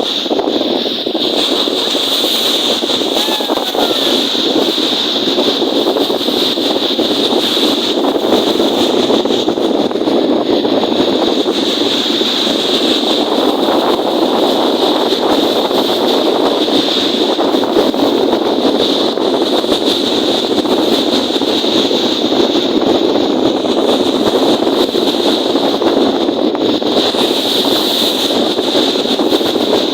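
Wind and lake waves making a steady, loud rushing roar with no breaks.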